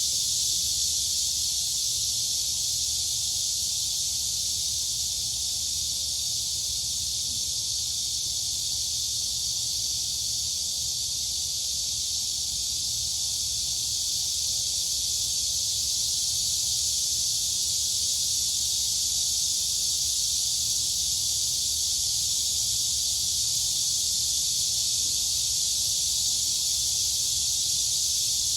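A dense chorus of crickets and cicadas: a continuous high-pitched shrill buzz that holds steady without pause, over a faint low rumble.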